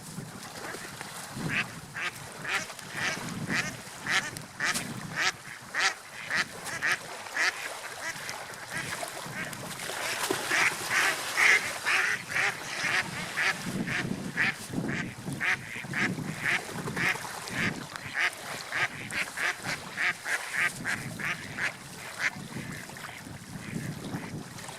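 Seagulls calling in a long series of short, sharp cries, a few each second and loudest about halfway through, over a low rushing sound that swells and fades.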